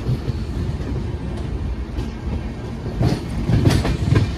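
Passenger train rolling into a station: a steady low rumble from the coaches, with a few wheel clacks over rail joints in the last second and a half.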